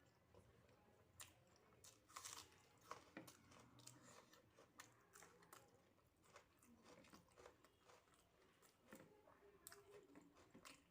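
A person chewing a meal of rice, dal, mashed potato and omelet, with faint, irregular wet mouth clicks and smacks; the loudest cluster comes about two to three seconds in.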